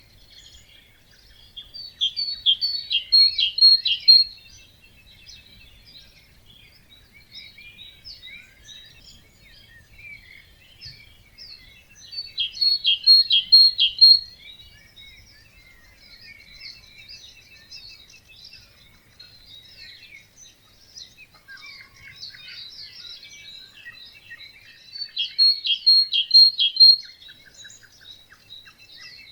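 Wetland dawn chorus of songbirds: a steady mix of chirps and short songs from several birds. One nearby bird sings a loud phrase of rapid repeated notes lasting about two seconds, three times, roughly every eleven to twelve seconds.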